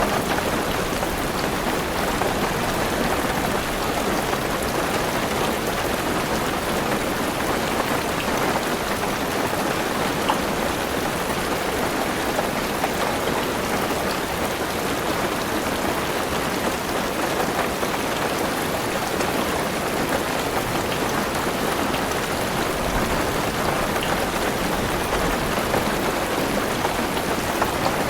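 Heavy rain falling steadily on a car roof and windows, heard from inside the car as a dense, even patter.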